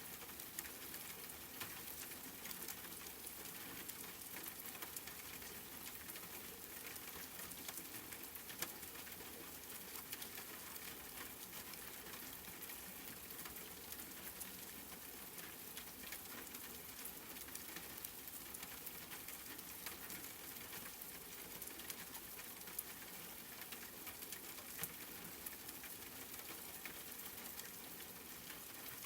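Steady rain falling on a surface: an even hiss filled with fine drop ticks, with a few slightly louder single drops now and then.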